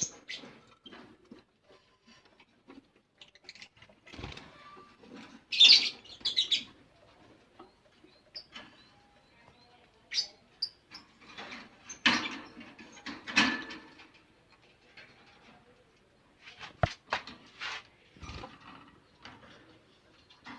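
Budgerigars chirping in short scattered bursts, the loudest about six seconds in, with a few sharp knocks among them.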